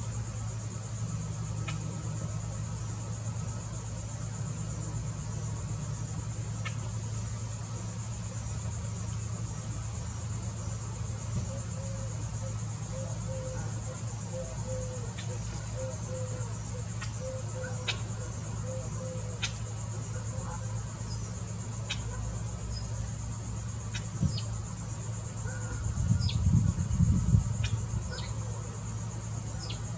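Steady high-pitched chorus of insects such as crickets, over a low steady hum, with scattered faint short chirps. A brief low rumble comes near the end.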